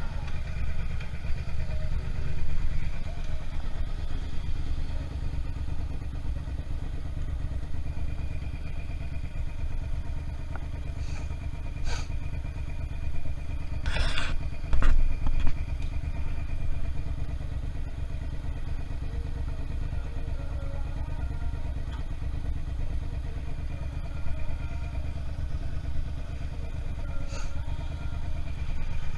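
Suzuki SV650's V-twin engine running at fairly steady revs while riding, a steady low rumble. A few short sharp noises come around the middle, the loudest about halfway through.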